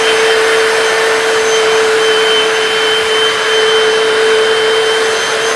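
Hoover PowerDash hard floor cleaner running steadily: a rushing motor noise with a steady whine.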